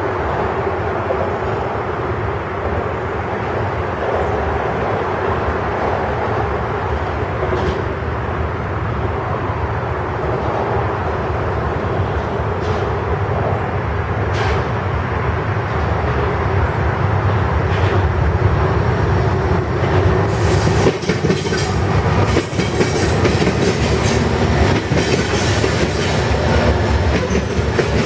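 Norfolk Southern freight train passing: a steady, loud rumble with a constant droning tone. From about twenty seconds in, the wheels' clickety-clack over the rail joints comes in with many sharp clicks, and the sound grows slightly louder.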